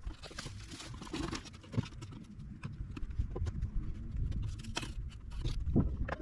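Irregular knocks and scrapes from hand work, with a low rumble beneath.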